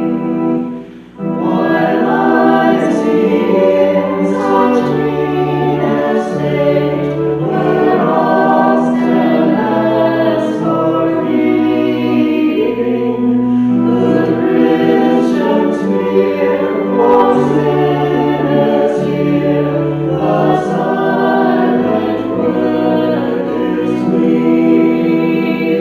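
Choir singing a hymn over sustained instrumental accompaniment, with a brief break about a second in.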